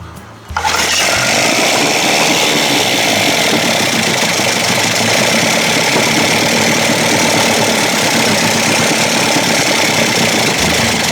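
1956 Evinrude 7.5 hp two-stroke outboard engine catching about half a second in and running steadily for about ten seconds, then cutting off near the end; the motor runs but still needs its carburettor dialled in.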